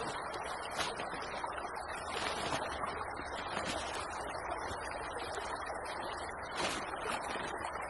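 Small creek flowing with a steady rushing sound, with a few sharp light clicks and snaps over it.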